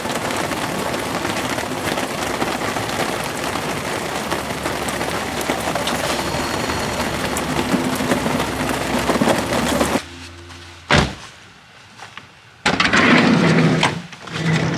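Campfire of pruned branches and paper juice cartons burning, a dense steady crackle with scattered sharp pops. About ten seconds in it cuts off suddenly, then comes one loud crack, and near the end two louder noisy stretches.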